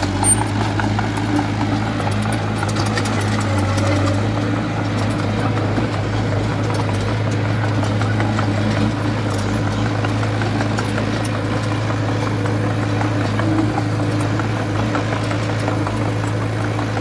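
Small bulldozer's diesel engine running at a steady speed with an even low drone, without revving.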